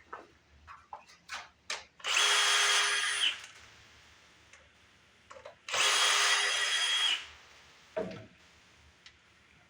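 Handheld power drill run twice in steady bursts of about a second each, spinning out fasteners while tearing down a small engine, with light tool clicks between and a single knock near the end.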